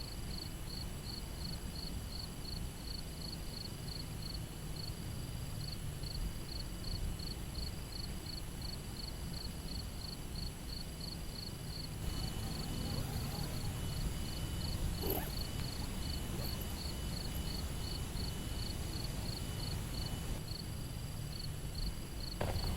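Crickets chirping in a steady rhythm, about two or three chirps a second, over a low steady rumble. There is a single sharp click about two-thirds of the way in, and a few clicks at the very end.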